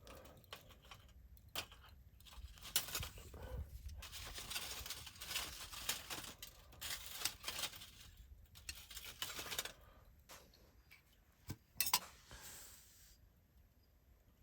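Close handling noises: irregular rustling and crinkling for several seconds, then two sharp clicks near the end.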